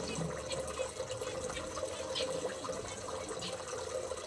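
Water running steadily, like a tap filling a container, with a few faint, short high-pitched sounds over it.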